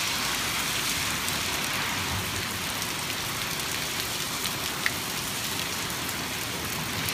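Heavy rain falling steadily, a constant hiss of rain on surfaces, with a few sharp drip ticks, one louder about five seconds in.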